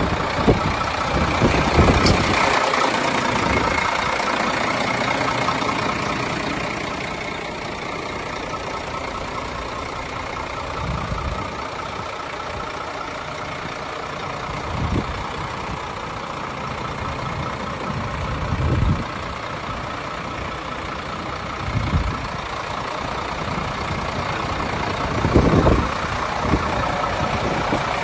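Iveco Trakker 380 truck's diesel engine idling steadily, with a few short low thumps now and then.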